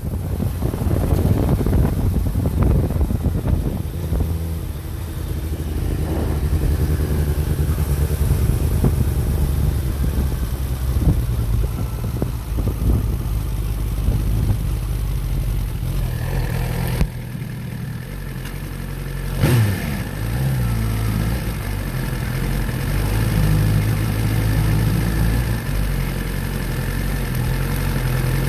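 Motorcycle engine running while riding, its note rising and falling with the throttle. The engine eases off about two-thirds of the way through, with a short sharp sound a couple of seconds later.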